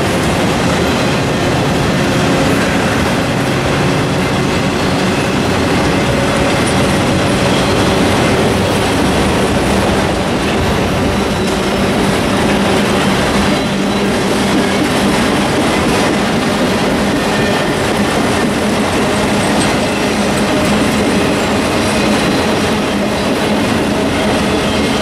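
Freight train of autorack cars rolling past: a loud, steady running noise of steel wheels on the rails that holds unbroken throughout.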